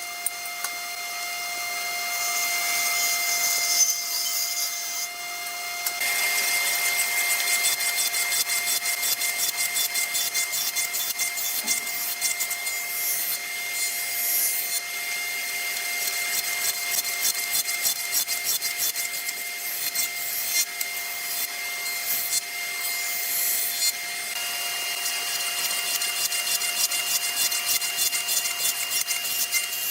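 A tool cutting or rubbing wood with a fast, even rasping over a steady whine; the rasping gets louder about six seconds in, and a higher whine joins near the end.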